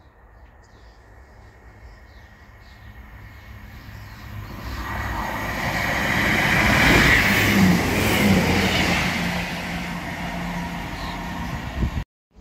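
Diesel multiple unit train coming into the station along the platform line. The rumble of wheels on rail and the diesel engine builds steadily to its loudest about seven seconds in, then eases off a little.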